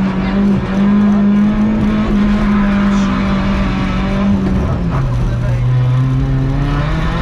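Rally car engine heard from inside the cabin while driving hard: held at steady high revs, then dropping sharply in pitch about five seconds in and slowly climbing again.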